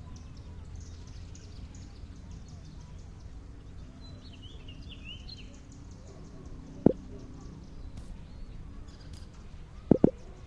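Steady low background hum with a short run of quick high chirps about four to five seconds in, and sharp knocks: one about seven seconds in and a quick double knock near the end.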